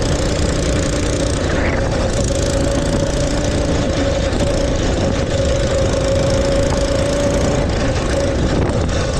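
Mini bike's small engine running at a steady speed while riding, an unbroken buzzing tone over dense rumble and rushing noise.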